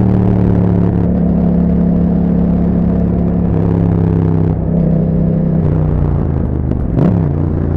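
2021 Yamaha MT-07's 689 cc parallel-twin engine running through an Akrapovic exhaust while riding at a steady pace. The engine note shifts in pitch a couple of times midway, and near the end it drops briefly and comes back.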